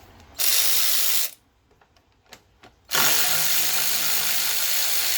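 Power tool with a socket running in two bursts, a short one of about a second and then a longer one of about three seconds, backing out the 10 mm nuts that hold the radiator fan assembly.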